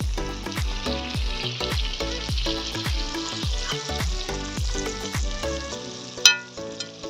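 Food sizzling as it fries, under background music with a steady drum beat about twice a second. The beat drops out near the end, and there is one sharp click shortly before it finishes.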